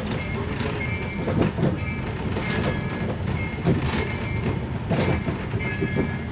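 Small tourist train on the move, heard from inside its carriage: a steady rumble with the carriage rattling and an occasional knock or jolt about once a second.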